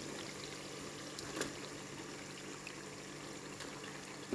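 Oily tomato-and-spice masala bubbling and sizzling softly in a cooking pot as raw chicken pieces go in, with a light knock about one and a half seconds in and another near the end.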